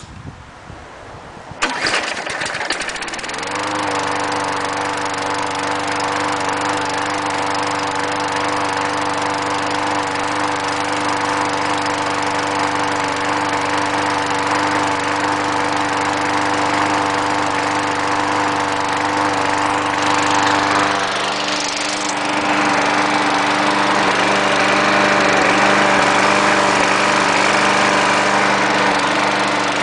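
Small engine starting about two seconds in, speeding up and settling into a steady run. About twenty seconds in its note changes, and it then runs steadily and a little louder.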